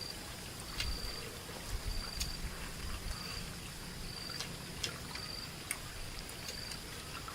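Insects chirping outdoors: a short, high chirp repeating about once a second over a steady high buzz, with a few light clicks scattered through.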